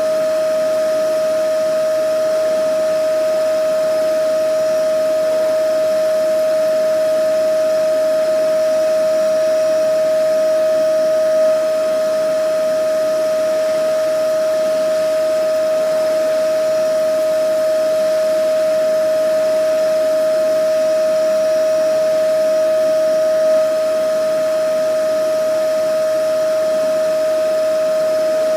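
Vacuum cleaner running steadily: a constant, even-pitched whine over a broad rushing hiss, with a slight brief swell in loudness about every twelve seconds.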